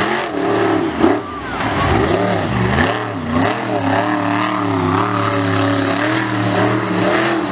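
A large engine revving hard: its pitch swings up and down several times over the first few seconds, then holds high and fairly steady.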